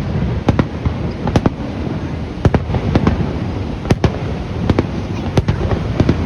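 Aerial fireworks display going off: a dozen or so sharp bangs at irregular intervals over a steady low rumble of further bursts.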